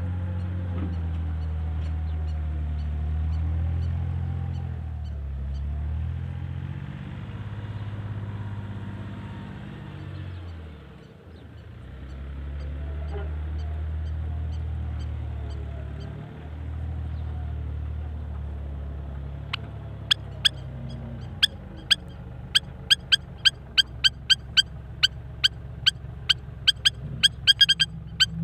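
Bulldozer's diesel engine running, its drone rising and falling in pitch as the load changes, with a brief drop in level about a third of the way in. From about two-thirds through, rapid sharp clicks join it at several a second, coming faster near the end.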